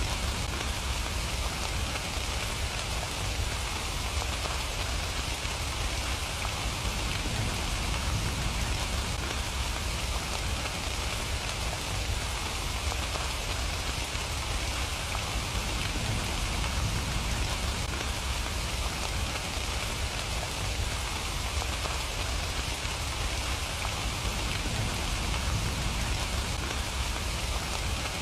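Steady rain falling and pattering on surfaces, an even unbroken hiss with a low rumble underneath.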